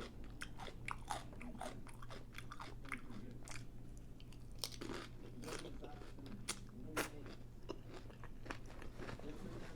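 Close-miked chewing and biting of a crisp taco boat shell filled with chorizo, with many short, irregular crunches.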